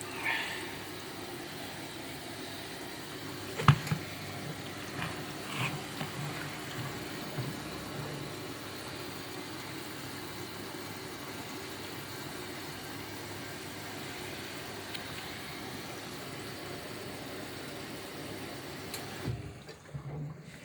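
Front-loading washing machine running with water filling and sloshing in the drum, a steady watery rush. A sharp knock sounds about four seconds in, followed by a few softer knocks.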